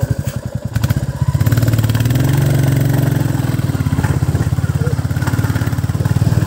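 Royal Enfield Bullet motorcycle's single-cylinder engine running with a rapid, even beat, getting louder a little over a second in and holding steady after.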